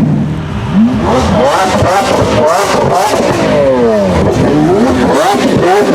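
Lamborghini Aventador V12 engine revving hard over and over, its pitch sweeping up and down, with a few sharp exhaust cracks.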